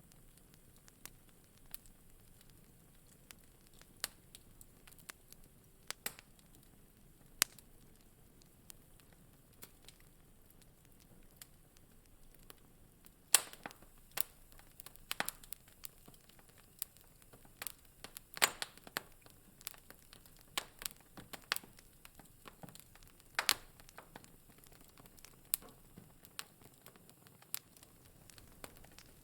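Wood fire crackling in a fireplace: irregular sharp pops and snaps over a faint hiss, sparse at first and coming thicker from about halfway, with the loudest pop at that point.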